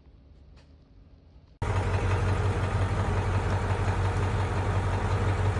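Near quiet for about a second and a half, then the sound cuts in abruptly to a diesel truck engine running steadily with a deep, even hum.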